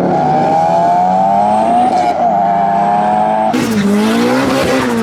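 A modified car's engine accelerating, its pitch climbing steadily for about three and a half seconds. The revs then swing sharply up and down, with a sudden rush of noise over the engine.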